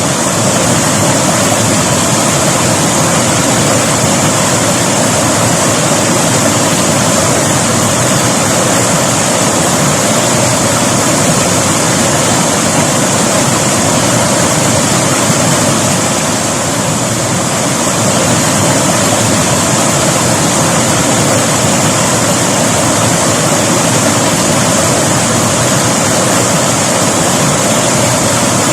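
River water rushing, a steady, loud, even roar of flowing water.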